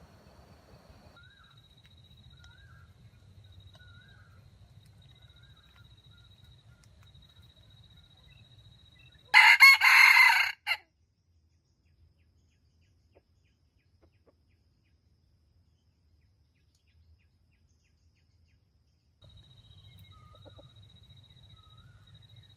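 A rooster crowing once, a short crow lasting about a second and a half. Faint small-bird chirps and a steady high insect-like tone sound before and after it.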